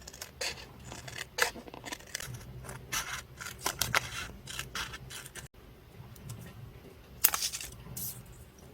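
Scissors snipping and paper being handled: a run of short, irregular snips and scrapes, with a louder paper rustle about seven seconds in.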